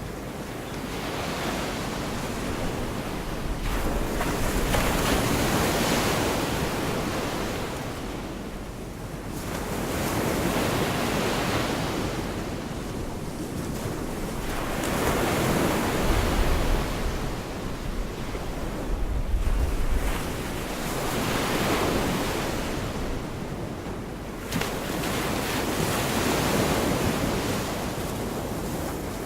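Gulf of Mexico surf: waves breaking and washing up the beach, swelling and fading about every five seconds. Wind buffets the microphone with low rumbles about halfway through.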